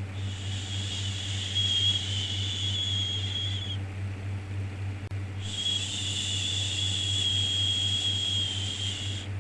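A soothing "shhh" shushing sound for a baby, heard twice: each long, high-pitched hiss lasts about three and a half seconds, with a pause of under two seconds between. A steady low hum runs underneath.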